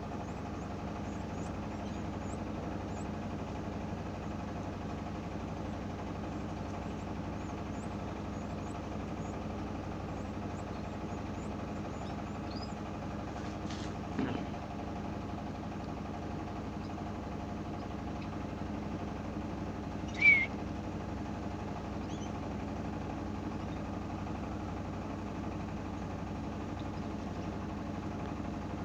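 A steady mechanical hum like an idling motor, with faint short high chirps scattered through the first half and one louder short chirp about twenty seconds in.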